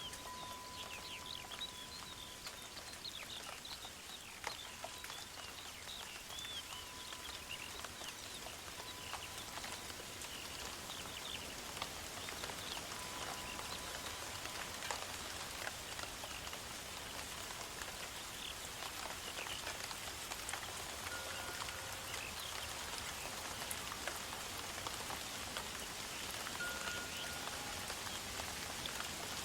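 Forest ambience: a steady, rain-like hiss that slowly grows louder, with birds chirping here and there, mostly in the first half. A thin held tone comes and goes in the first half.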